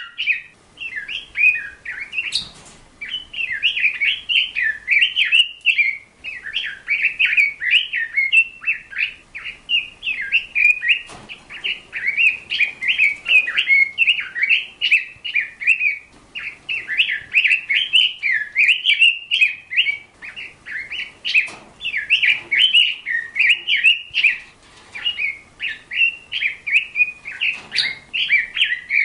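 A small bird chirping and warbling almost without pause, in quick runs of short notes, with a few faint clicks.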